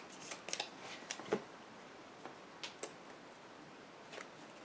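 Trading cards being handled and turned over on a table: a scatter of light clicks and snaps, several close together in the first second and a half, then a few more spaced out.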